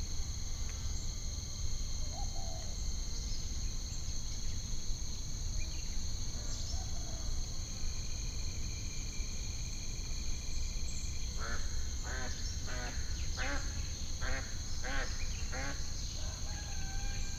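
Added nature ambience: a steady, high-pitched chorus of insects like crickets over a low rumble, with a quick run of about nine or ten bird calls, perhaps ducks or other water birds, starting about two-thirds of the way in.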